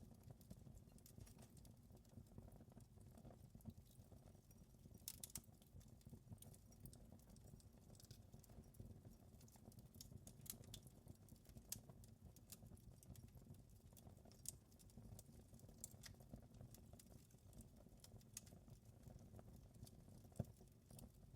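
Wood fire crackling faintly, with irregular small pops over a low steady rumble and one sharper pop near the end.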